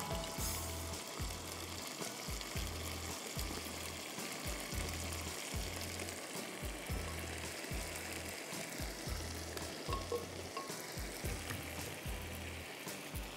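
Blended onion-tomato masala paste sizzling as it fries in butter and oil in a frying pan. Background music with a steady low beat plays underneath.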